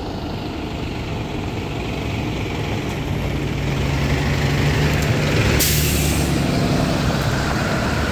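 School bus engine running as it draws near, getting louder, with a short sharp hiss from its air brakes about five and a half seconds in.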